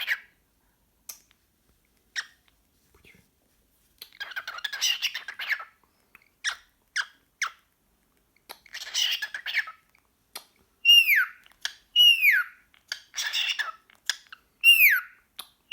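Cockatiel chattering excitedly in scratchy bursts mixed with short clicks, then giving a clear falling whistle three times in the second half.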